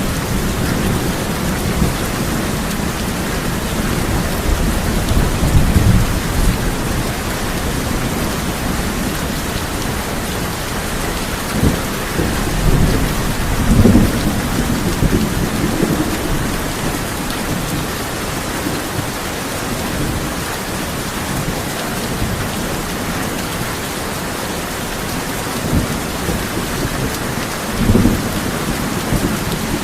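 Heavy rain drumming steadily on a tin roof, with low rolls of thunder swelling several times, the loudest about midway and another near the end.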